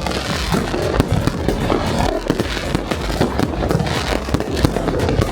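Many fireworks and firecrackers going off at once: a dense, continuous crackle of bangs with no pause.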